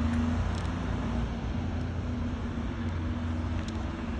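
Fire engine's diesel engine running with a steady low hum, with no siren sounding.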